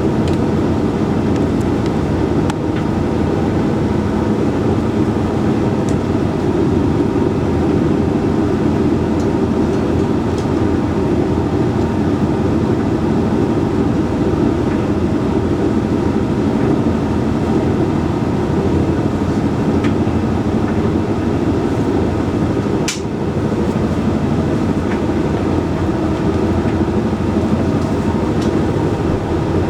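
Hoover Link X Care HLX C10DRGR condenser tumble dryer running a Whites drying cycle: a steady hum and rumble of the motor, fan and turning drum. A single sharp click comes about 23 seconds in.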